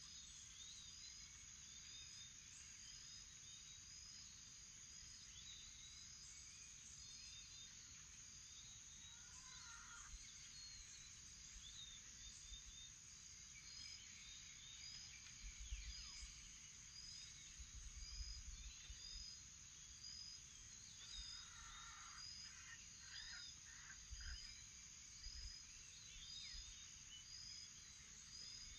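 Faint morning chorus of birds calling and chirping over a steady high-pitched insect drone, with a short high chirp repeating about once a second. Clusters of lower calls stand out about a third of the way in and again after two thirds.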